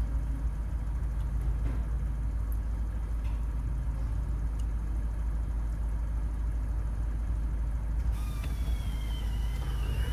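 Ford Transit 2.2 TDCi (QVFA) four-cylinder turbodiesel engine running at a steady idle.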